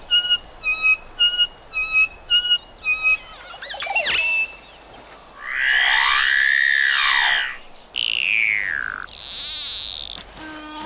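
A string of different bird calls one after another: a quick run of about nine short clear whistled notes, then a long call that rises and falls, a falling whistle, and a wavering high whistle near the end.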